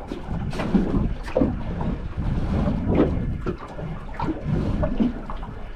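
Wind buffeting the microphone, with water sloshing and splashing in uneven bursts.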